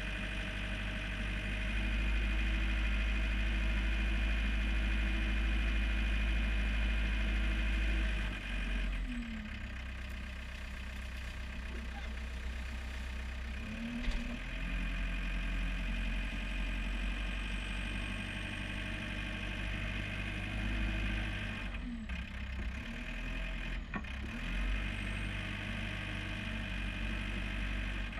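John Deere 4720 compact tractor's diesel engine running steadily. It drops in level a little about a third of the way in, then dips briefly in pitch a few times. There is one sharp click about halfway through.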